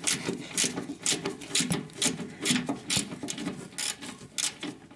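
Ratchet wrench being worked in quick back-and-forth strokes to undo the 14 mm fastener of an anti-roll bar bushing clamp: a rasping ratchet click about three times a second.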